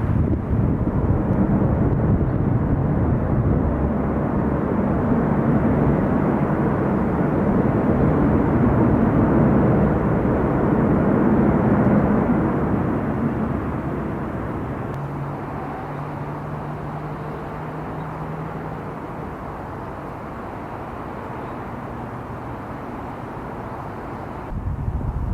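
Jet airliner going by on landing: loud engine noise for about the first twelve seconds, then fading away to a lower, steady level.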